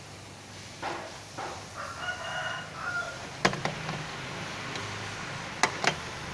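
A bird calls once for about a second, pitched and crow-like, followed by a few sharp clicks, the loudest two close together near the end.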